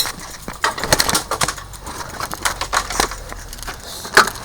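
A bicycle being pulled out of a cluttered storage space: irregular knocks, clicks and rattles, with a low rumble partway through and a sharper knock near the end.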